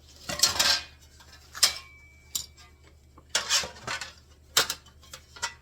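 Metal clinking and clattering in about six short bursts with pauses between them, as sheet-metal parts and small fasteners are handled.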